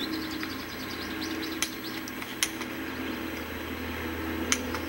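A bird's rapid trill of repeated high chirps in the first second or so, over a steady low hum, with a few sharp clicks scattered through.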